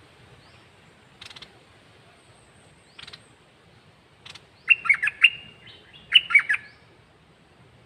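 Caged red-whiskered bulbul singing: a few faint, short clicky notes, then two loud, quick warbled song phrases about a second apart in the second half.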